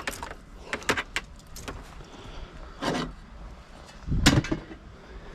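Scrap metal and wire being handled and sorted, giving a series of scattered clanks and knocks; the heaviest, a dull thud, comes about four seconds in.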